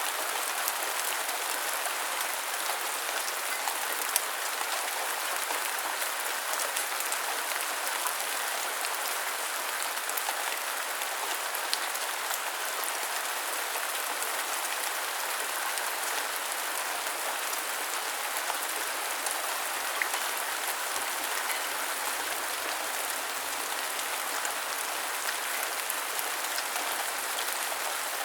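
Steady rain falling, an even hiss with no let-up, with a few louder single drop taps now and then.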